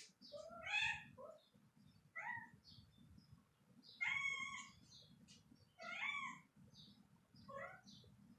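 A cat meowing about five times, each a short pitched call, several rising in pitch.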